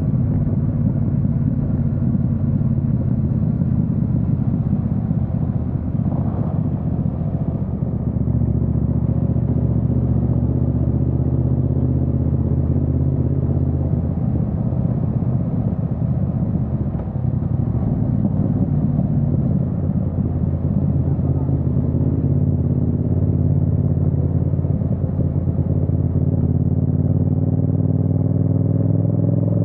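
Yamaha MT-07's parallel-twin engine running steadily while riding, with a low rush of wind and road noise; near the end the revs rise as it accelerates.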